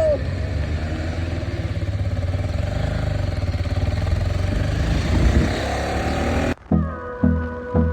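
KTM Duke 250 motorcycle engine running steadily as the ride gets under way, picking up briefly near the middle. About six and a half seconds in it cuts off suddenly to music with an even beat.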